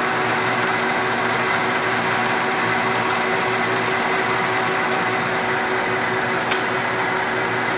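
South Bend 13" x 30" lathe running in direct drive with the carriage on power longitudinal feed: a steady hum of motor and gearing, holding a few constant tones.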